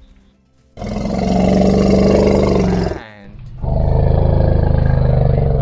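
Lion roaring: two long, deep roars, the second starting about three and a half seconds in.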